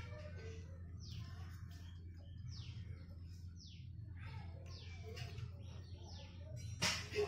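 Small birds chirping, a string of short, steeply falling notes one or two a second, over a steady low hum. A single sharp knock stands out near the end.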